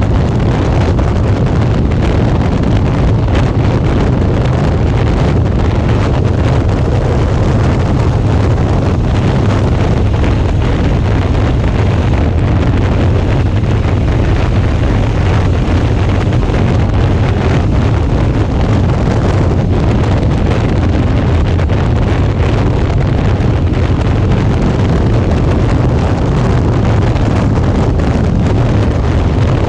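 Steady wind rumble on a GoPro's microphone while riding a Suzuki V-Strom 650 motorcycle at road speed, with the bike's engine running under it.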